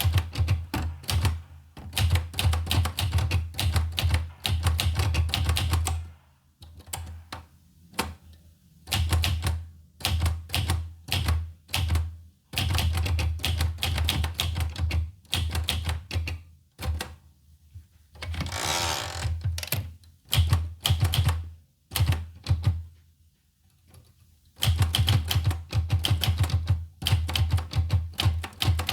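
Olivetti Lettera 25 manual typewriter being typed on: runs of rapid key strikes broken by short pauses. Just past the middle there is one longer sliding sound, as the carriage is returned.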